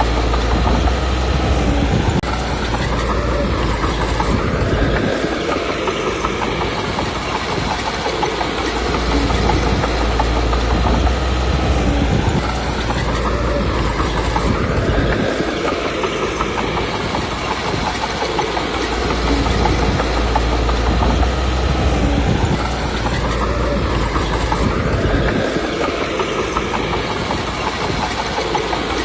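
Komatsu D21P bulldozer's diesel engine working under varying load. Its pitch rises and falls in a cycle that repeats about every ten seconds.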